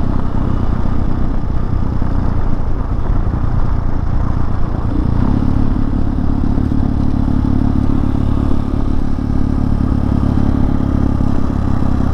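Hawk 250 single-cylinder dual-sport motorcycle engine running steadily while riding; about five seconds in, the engine note steps up and gets louder.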